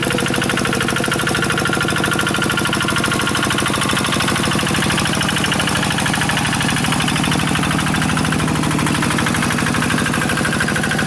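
Quick G1000 two-wheel hand tractor's single-cylinder diesel engine running steadily, with a fast, even beat.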